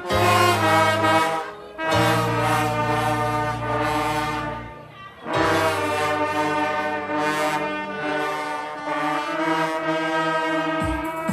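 Brass band playing slow phrases of held chords, each lasting about two to three seconds with short breaks between, and low brass sustaining bass notes beneath.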